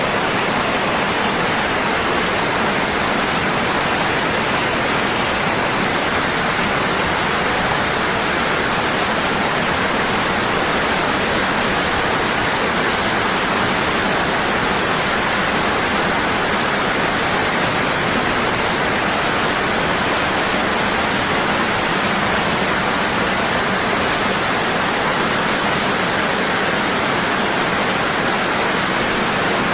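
Waterfall falling hard and constant: a steady, even rush of water with no breaks or changes.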